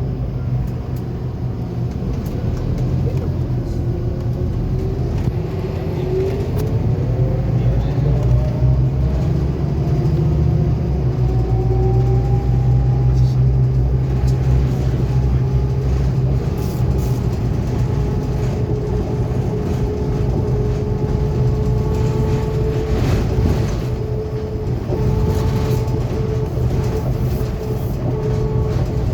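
Scania K280UB4 city bus heard from on board, its engine and drivetrain running under a steady low rumble. A whine rises in pitch over the first dozen seconds as the bus gathers speed, then holds a steady pitch while it cruises.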